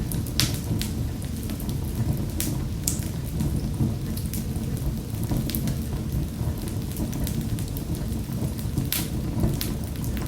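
Wood fire in a fireplace crackling: a steady low rumble of flames with sharp pops scattered irregularly, the strongest just after the start and about nine seconds in.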